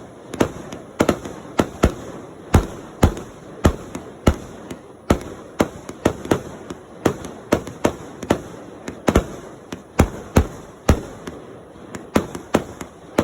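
Fireworks going off: a continuous string of sharp bangs at irregular spacing, roughly one every half second, each trailing off in a short echo.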